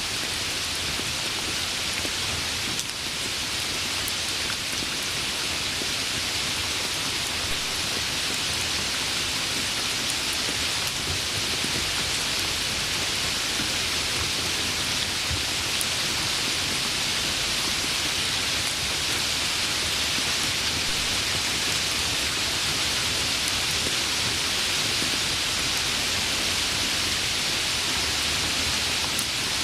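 Steady rain falling, an even continuous hiss of drops with no let-up.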